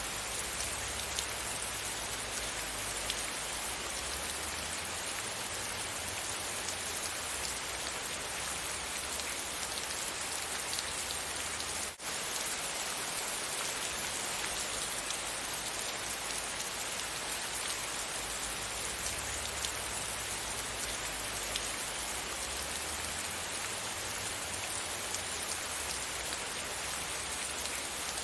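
Steady rain falling, an even hiss with scattered drop ticks. It drops out for a split second once about halfway through.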